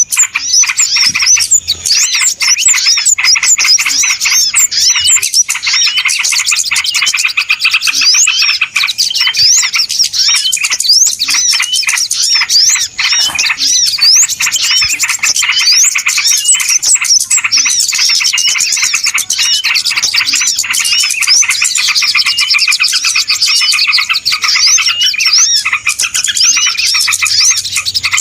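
A dense, loud chorus of many small birds chirping and twittering at once, with quick overlapping notes and short pitch sweeps that never pause: a 'ribut' (noisy) bird-luring recording.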